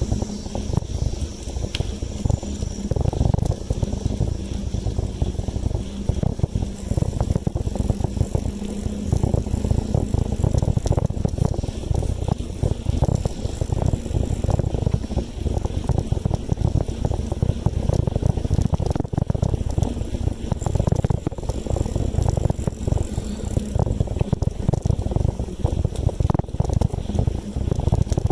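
Wind buffeting the microphone of a rider on a moving bicycle: a constant, fluttering low rumble with road and tyre noise under it.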